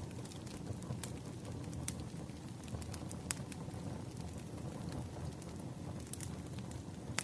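Wood fire burning: a steady low rumble with scattered sharp crackles and pops of the burning logs.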